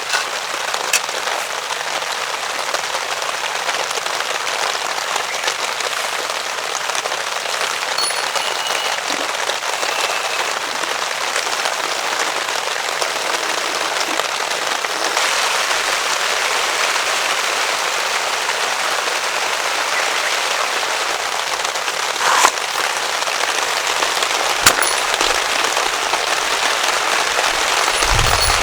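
Heavy rain falling on a camp tarp: a dense, steady patter, with a few sharp single clicks now and then.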